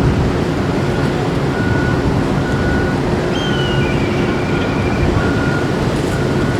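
Steady low rumble and hum of a large ship's engines and machinery as the vessel gets under way, with faint short high chirps over it.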